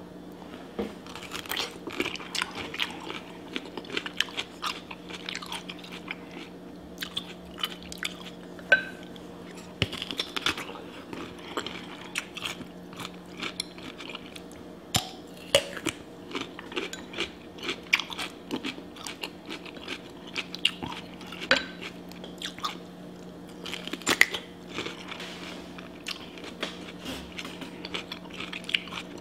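Close-up eating sounds: crisp crunching bites into a raw whole cucumber dipped in sauce, then chewing, with many sharp, irregular crunches and wet mouth clicks. A steady low hum runs underneath.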